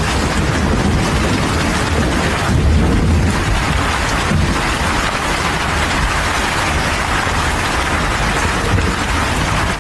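Heavy rainstorm: a loud, steady rush of pouring rain with a low rumble underneath, cut off suddenly at the end.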